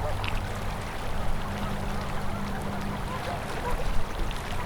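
River water flowing steadily, a continuous rush, with a steady low hum underneath. A few faint short calls sound over it in the second half.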